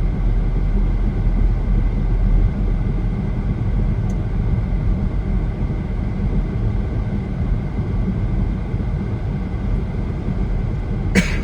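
Steady low rumble of road and engine noise inside a moving car's cabin, with one sharp click near the end.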